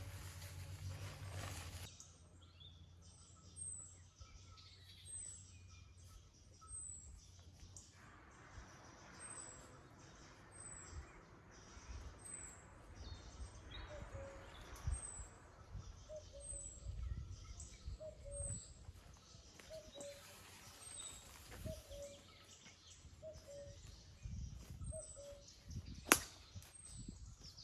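Small bird repeating a short, high, falling call about once a second, with a lower repeated note joining about halfway through, over faint outdoor ambience; a single sharp click near the end.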